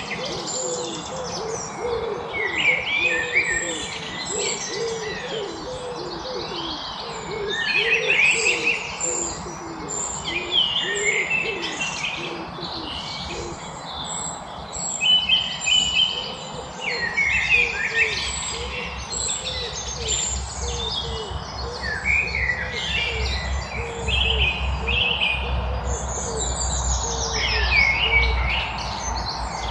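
A chorus of songbirds chirping and singing in quick, overlapping high phrases, over a low, rapidly repeated hooting call. A low rumble joins underneath about halfway through.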